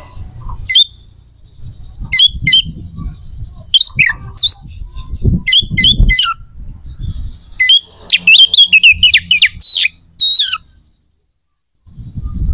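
A bird calling in short, sharp squawks and chirps, with a quick run of calls about eight seconds in, over a low rumble.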